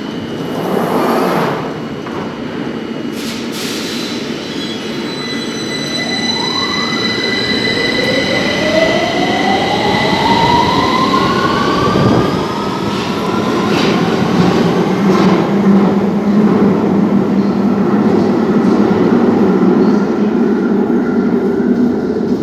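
London Underground Victoria line 2009 Stock train running over a steady rumble of wheels on the rails. From about six seconds in, its traction motor whine rises in pitch as it accelerates.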